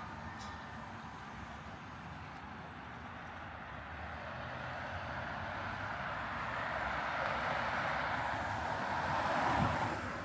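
A road vehicle passes close by on a city street, its tyre and engine noise swelling over several seconds to a peak near the end and then falling away quickly, over a steady hum of traffic.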